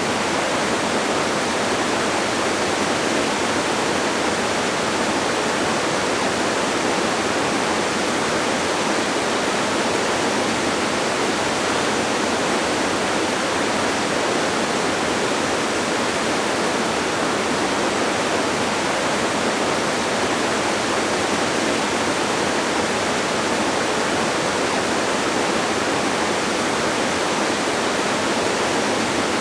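Distant waterfall rushing in a steady, unbroken roar of falling water, with little deep rumble.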